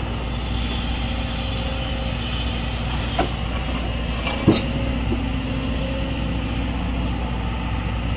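A heavy diesel engine running steadily at a low, even pitch, with a sharp knock about three seconds in and a louder knock about a second and a half later.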